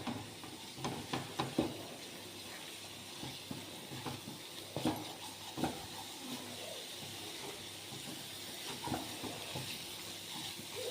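Masala paste sizzling in hot oil in a kadai as it is stirred and sautéed, with scattered clicks and scrapes of the spatula against the pan.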